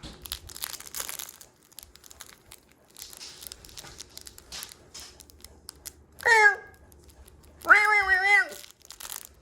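Crinkling and rustling of paper or plastic, followed near the end by two drawn-out high voiced calls, the second one longer.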